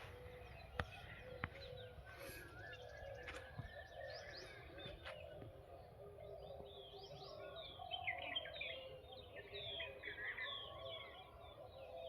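Several wild birds chirping and calling together in forest, with a dense run of quick chirps in the second half. Two sharp clicks sound about a second in.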